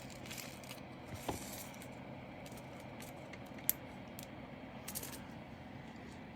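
Faint, scattered small clicks and rattles from handling diamond painting drills and their small plastic bags and storage containers, with one sharper click near the middle.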